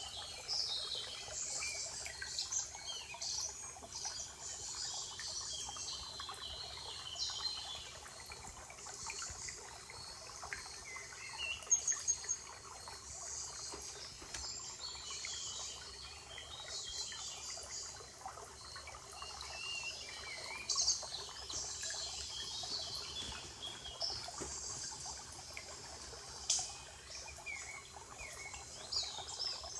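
Several birds singing and chirping in a spring forest: many short, high chirps and gliding notes overlapping throughout, over a steady background wash. A few brief notes stand out louder, about twelve and twenty-one seconds in.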